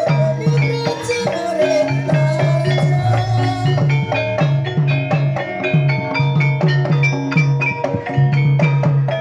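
Gamelan-style music of the kind that accompanies Barongan and Jaranan: metal mallet percussion playing a quick run of short pitched notes over a steady repeating drum pattern.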